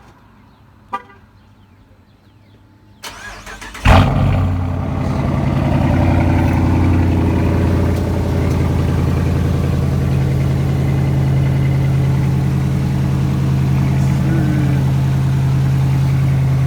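A car engine is started: a couple of clicks, then about four seconds in it fires with a sudden loud burst and settles into a steady, deep idle.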